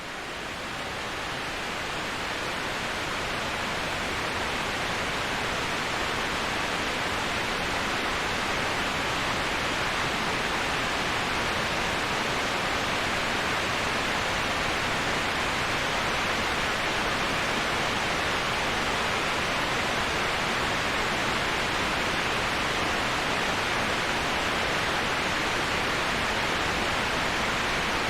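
Steady, even rush of a waterfall used as white noise, swelling up from silence over the first few seconds and then holding level.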